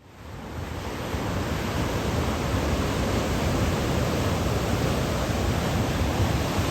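Steady rushing of wind and surf on a GoPro's microphone in onshore conditions, fading in over the first second.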